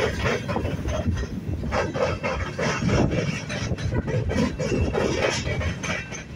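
Coil steel cars of a freight train rolling past, their wheels knocking irregularly over the rail joints several times a second over a steady rumble.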